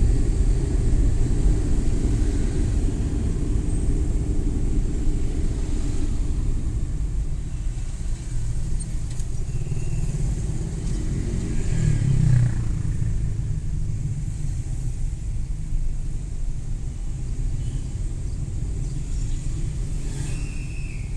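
Suzuki Every Wagon kei van driving on city streets: steady low engine and road rumble, with a louder low swell about twelve seconds in.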